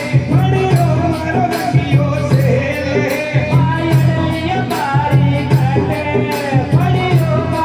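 Live Indian devotional folk music: a sustained melody over a steady, regular percussion beat.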